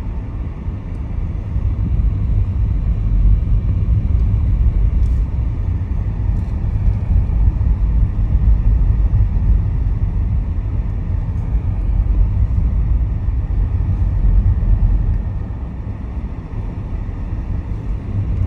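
A car driving: a steady low rumble of engine and tyre noise that eases slightly for a moment near the end.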